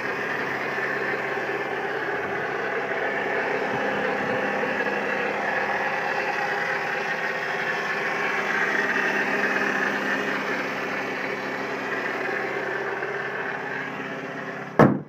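Saturn Vue 2.2L inline-four engine running steadily after a cold start, with a constant rasping noise like two sheets of sandpaper rubbed together. The noise comes only in cold weather and fades as the car warms; the owner suspects something to do with the car's fluids. A single sharp knock near the end.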